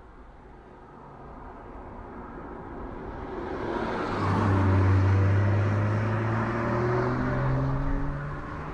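A car approaches, growing louder over about four seconds. Then its engine runs close by, the engine note slowly climbing in pitch as it accelerates.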